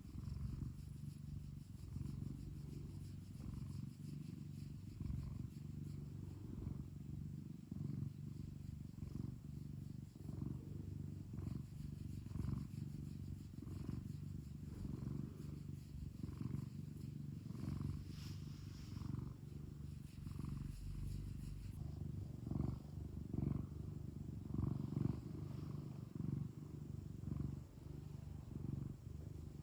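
Domestic cat purring steadily, a low rumble that swells and eases about once a second.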